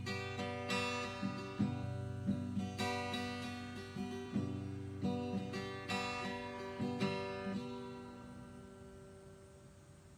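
Acoustic guitar playing the song's closing instrumental bars, its chords strummed and plucked, then ringing out and fading away over the last few seconds.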